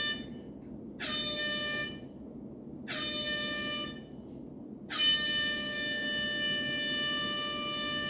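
Ship's emergency alarm horn sounding in blasts about a second long with short gaps between, two short blasts and then a long blast starting about five seconds in: the alarm signal that calls the crew to their muster stations.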